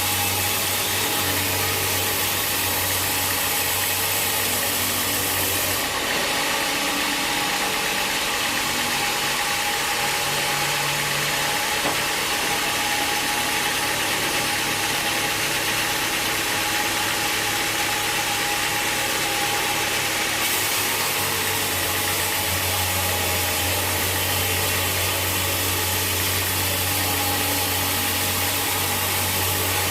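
Sawmill machinery running steadily: a continuous engine drone under a constant hiss, with the character of the sound shifting abruptly about six seconds in and again about twenty seconds in.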